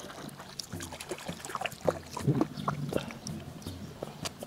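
Close-up eating sounds: wet chewing, lip-smacking and sucking on chicken bones in extra-spicy seblak, with many small clicks. A low hum of the voice runs through the middle.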